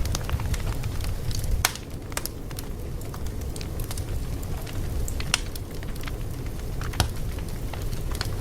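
Fire crackling: irregular sharp pops and snaps over a steady low rumble, with a few louder pops at about one and a half seconds, five seconds and seven seconds in.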